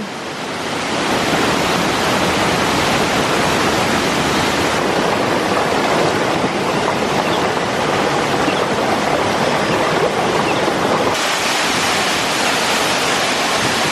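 Waterfall rushing and splashing, a loud, steady roar of falling water, with abrupt shifts in its tone about 5 and 11 seconds in.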